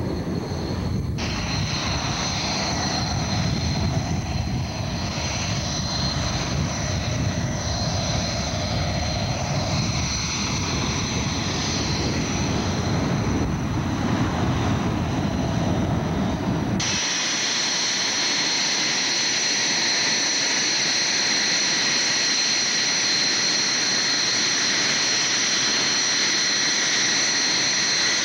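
Jet engines of a Boeing E-3D Sentry, its CFM56 turbofans, running: a low rumble that changes abruptly about two-thirds through to a steady high whine.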